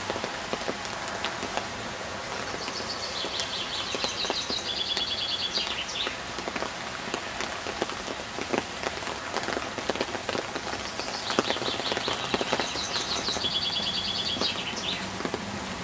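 Steady rain falling, with many small drop taps. A songbird sings two phrases of quick repeated notes, one a few seconds in and another about two-thirds of the way through.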